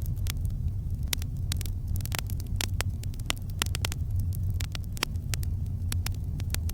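Campfire burning: a steady low rumble under irregular sharp crackles and pops from the burning wood, several a second.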